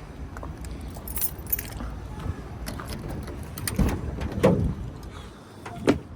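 Keys jangling and small metal items clinking as they are handled, with scattered clicks and a few louder knocks in the second half over a low rumble.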